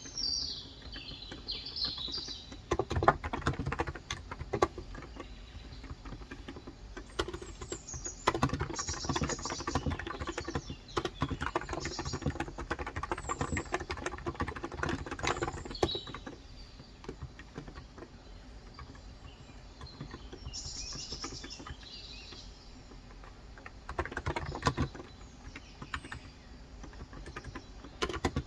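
Typing in bursts on a Cox Endeavor electro-capacitive (35 g) tenkeyless keyboard, with quiet stretches between. Birds chirp at intervals behind the typing.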